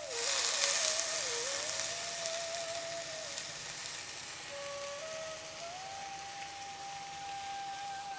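Grated potato sizzling in hot oil and cumin in a metal kadhai, a steady frying hiss that is loudest in the first second or so and then settles. A soft background tune of long, sliding single notes plays over it.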